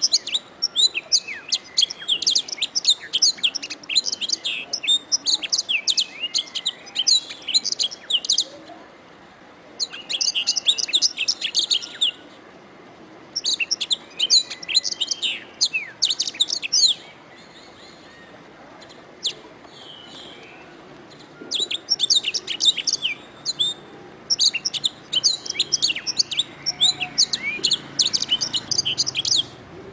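Domestic canary singing: fast, high trilled phrases of rapid chirps in several long bursts, broken by short pauses and a longer lull of scattered single notes around the middle.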